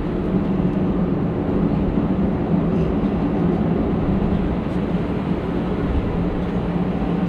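Steady engine and airflow noise of a jet airliner heard from inside the passenger cabin during takeoff and climb, a constant low drone with a steady hum.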